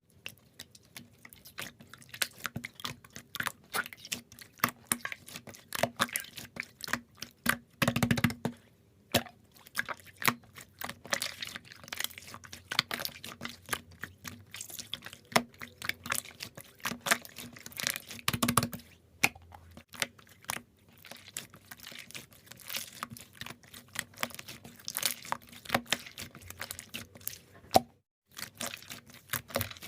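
Slime being played with by hand, giving a dense run of small crackling clicks and pops, with a couple of brief pauses.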